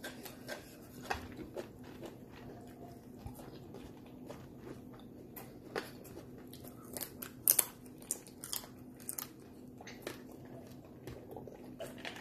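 Close-up eating sounds of fried chicken wings being bitten and chewed: irregular small crunches and clicks, with a few sharper ones clustered a little past the middle, over a faint steady hum.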